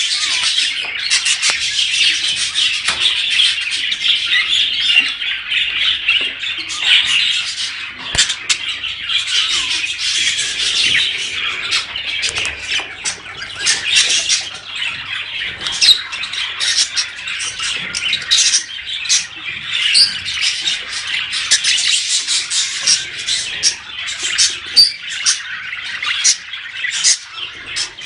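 Budgerigars chattering and warbling without pause: a dense run of quick chirps, squawks and clicks. This is the kind of budgie chatter played to encourage pet budgies to breed.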